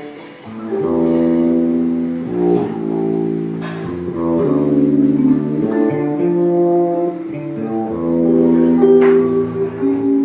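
Live band playing a slow instrumental introduction, with guitar and bass holding sustained chords that change every second or two.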